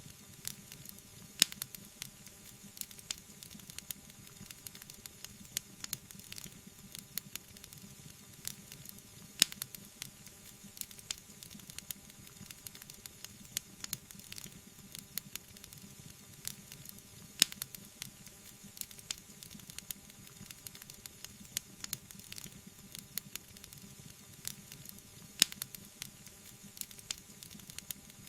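Wood fire burning in a fireplace, crackling with frequent small pops and a few louder snaps over a soft steady hiss.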